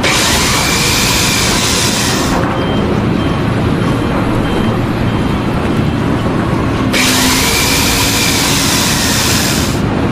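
Loud, steady machine noise with two long spells of hissing: one in the first two seconds or so, and one from about seven seconds in until near the end.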